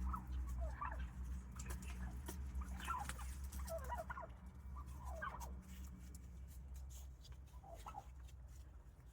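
A flock of wild turkeys giving a string of short calls, many in the first six seconds and fewer toward the end, over a steady low hum.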